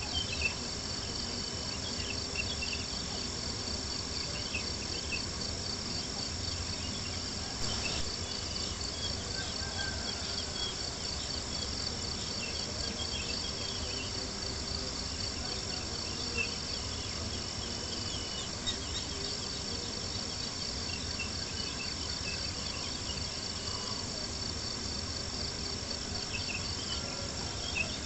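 A steady chorus of crickets chirping, over the faint pops and crackles of a campfire and a low, even hiss.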